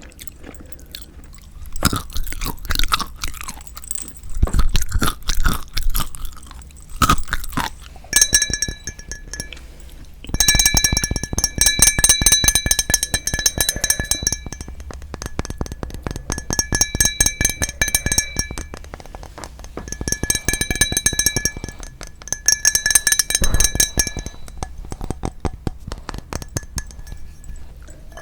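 Close-miked chewing of seasoned raw marinated shrimp, wet and crunchy, in a run of bursts of rapid crackling bites.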